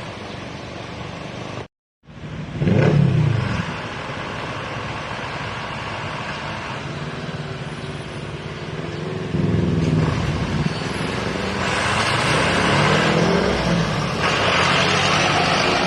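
Road traffic with trucks passing close by: engines and tyre noise throughout. One vehicle goes by loudly about three seconds in, and another engine grows louder through the second half. The sound cuts out completely for a moment just before two seconds in.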